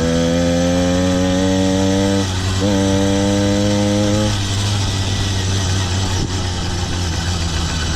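Small engine of a motorized bicycle pulling under load, its pitch slowly climbing as the bike gathers speed, with a brief dip in the middle. The engine tone fades about halfway through, leaving a steady low hum and the rush of wind and road.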